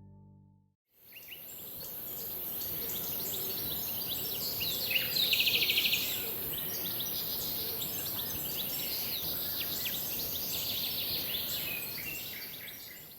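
Birdsong ambience: many small birds chirping and trilling over a steady high hiss, with one loud rapid trill about five seconds in. It fades in just after the start and fades out near the end.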